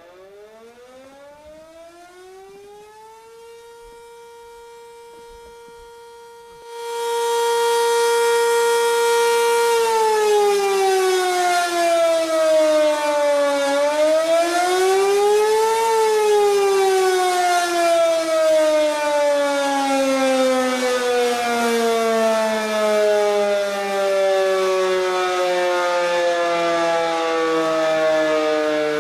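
Air-raid siren winding up to a steady wail. About seven seconds in it suddenly becomes much louder, with hiss added. It then falls, climbs briefly again and slowly winds down.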